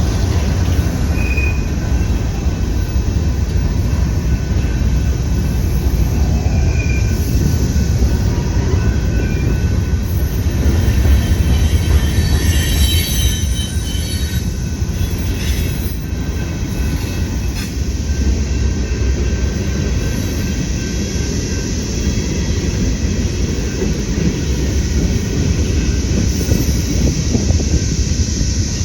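A train rolling past close by: a loud, steady rumble of wheels on the rails, with faint high-pitched wheel squeal about halfway through.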